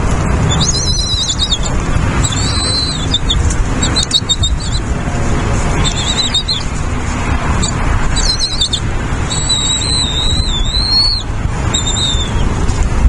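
A bird's high, wavering calls, repeated about seven times with gaps between them, the one near the two-thirds mark longest, over a loud, steady low rumble.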